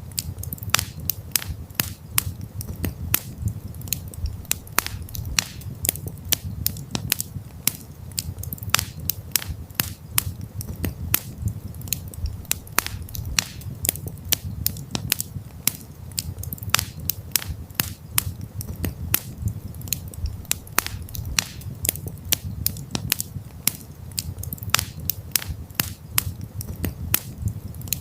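Wood campfire crackling, with dense, irregular sharp pops and snaps over a steady low rumble of the burning fire.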